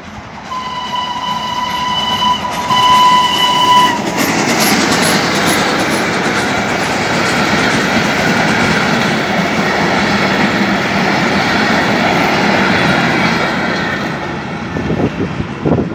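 A vintage passenger train passing: the locomotive's whistle sounds two blasts, a longer one and then a shorter one. After that the carriages roll by with a loud, steady rumble and wheel clatter for about ten seconds, fading near the end.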